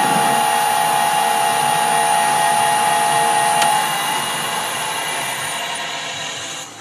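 Metal lathe running in reverse on a thread-cutting pass, a loud steady whine with a high-pitched ring. A click comes a little past halfway, then the whine fades as the lathe runs down.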